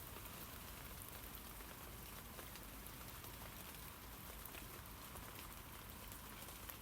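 Steady light rain falling on tree leaves: a soft, even patter, with many small drop ticks scattered through it.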